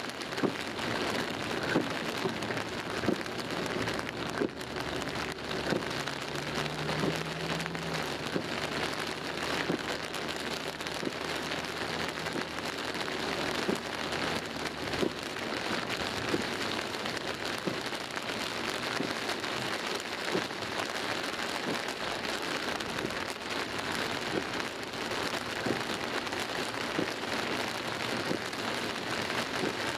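Heavy rain pelting the car's windscreen and roof, heard from inside the cabin: a steady dense hiss studded with many sharp drop impacts.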